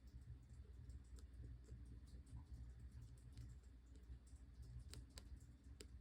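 Faint, scattered small clicks and taps of Copic alcohol markers being handled and used on paper, over a low steady hum.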